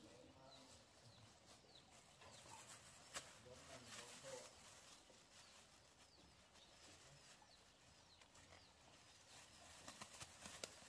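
Faint, quick chirping of small birds or chicks, with a few sharp clicks or knocks, the loudest about three seconds in.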